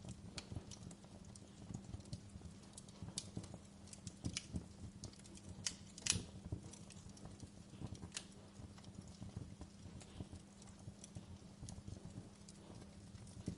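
Wood fire crackling: irregular sharp pops and snaps of burning logs, the loudest about six seconds in, over a low steady rumble.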